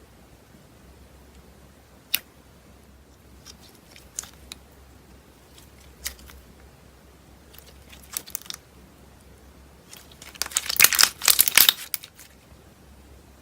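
Slime being handled: scattered small sticky pops every couple of seconds, then a dense run of crackling and popping for about two seconds near the end.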